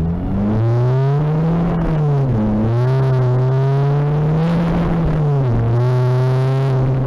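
Tuned Seat Ibiza turbodiesel (TDI) engine pulling hard under acceleration, heard from inside the car. Its pitch climbs, then drops sharply at a gear change about two seconds in, climbs again and drops once more near the end.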